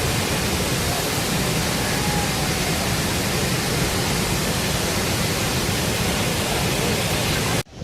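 Steady, loud rush of water falling at Athirappilly waterfall. It cuts off suddenly near the end.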